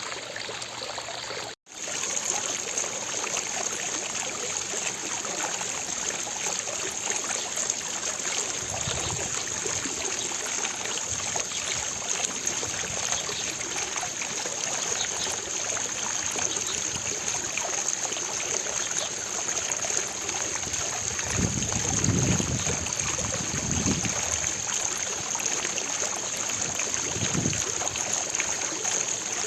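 Fountain water splashing steadily into its basin, an even rushing splash. It cuts out for a split second about a second and a half in, then carries on a little louder, with a few soft low rumbles in the second half.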